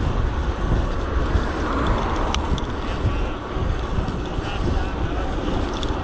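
Wind rumbling on the microphone and road traffic noise while riding an electric bike along a road, with a single sharp click about two and a half seconds in.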